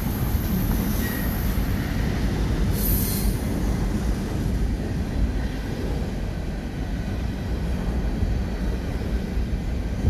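Covered hopper cars of a Canadian Pacific freight train rolling past: a steady, dense rumble of steel wheels on rail, with faint thin wheel squeals now and then and a short high hiss about three seconds in.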